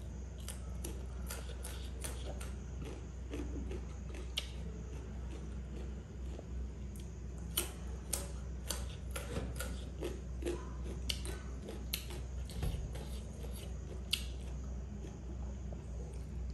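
Close-up chewing of crunchy raw carrot: irregular crisp crunches and clicks, most frequent in the middle, over a steady low hum.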